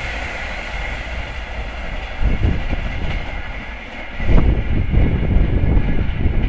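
Rail noise of an express passenger train fading away as its last coach recedes down the line after passing at speed. Low, uneven rumbling comes in briefly at about two seconds and again from about four seconds in.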